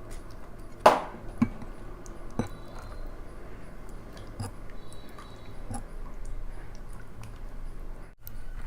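Close-miked eating sounds: a person chewing and biting food, with a few sharp crunches, the loudest about a second in. The sound drops out briefly near the end.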